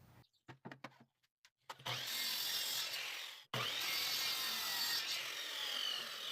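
A power saw cutting pallet wood, preceded by a few light clicks. The second half has falling whine lines as the blade runs.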